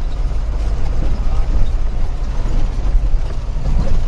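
Truck engine and road noise heard from inside the cab while driving: a steady low drone.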